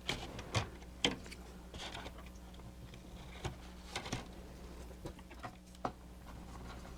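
Light, scattered clicks and taps of small plastic parts and tape being handled at a workbench, about six in all, over a low steady hum.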